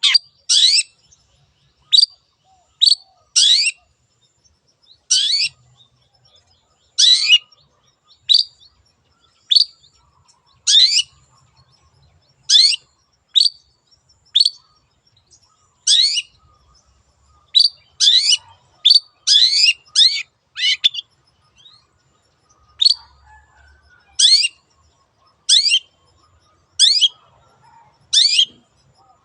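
Long-tailed shrike (cendet) calling: short, sharp, high-pitched call notes repeated about once a second, sometimes in quick runs of two or three.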